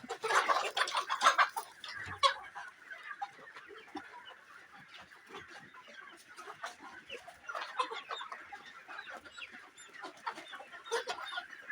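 A flock of young pullets, about 13 weeks old, clucking and chattering. It is loudest in the first second and a half, with further busier spells of clucking near the middle and end.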